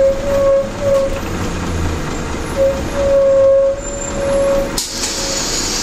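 Scania L113CLB city bus: diesel engine rumbling low, with a high steady squeal from the brakes coming in several short bursts. Near the end, a sudden hiss of compressed air released from the air brakes.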